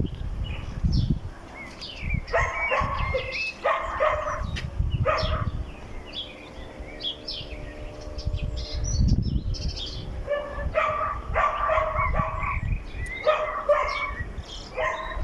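A dog barking repeatedly in several runs of short barks, over a gusty low rumble.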